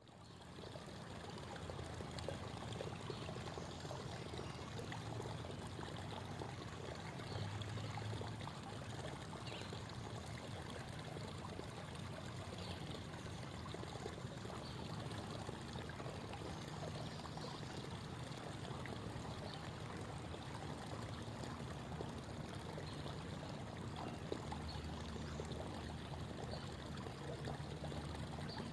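Creek water babbling and trickling in a steady, even flow, fading in over the first second.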